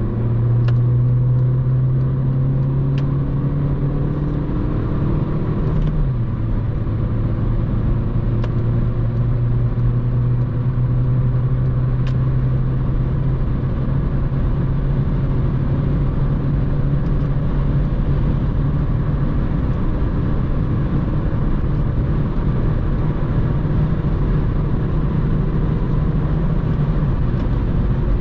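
Mercedes-Benz A180d's 1.5-litre four-cylinder turbodiesel droning under load at high Autobahn speed, over a steady rush of tyre and wind noise. The engine note dips about six seconds in, then climbs slowly as the car keeps pulling.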